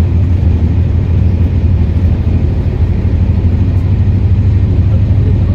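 Train running with a loud, steady low rumble.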